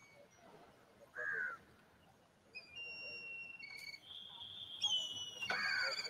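Birds calling: a series of clear whistled notes, each held for up to about a second and stepping between pitches, with a short falling call about a second in and a louder, harsher call near the end.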